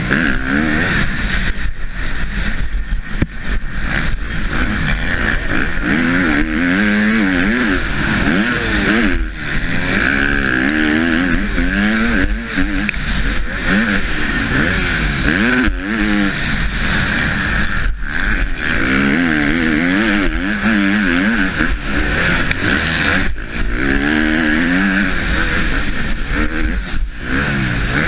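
A Husqvarna motocross bike's engine at racing pace, its pitch repeatedly climbing and falling as the rider goes up through the gears and backs off for corners and jumps, with brief drops in level every few seconds. A steady hiss of wind and track noise runs beneath it.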